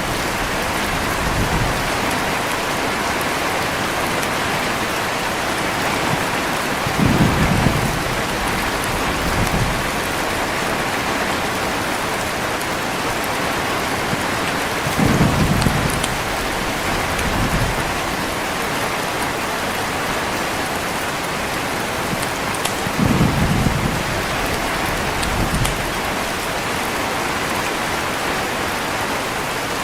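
Heavy rain falling steadily, with low rolls of thunder about every eight seconds, three times. Each roll is followed by a fainter rumble about two seconds later.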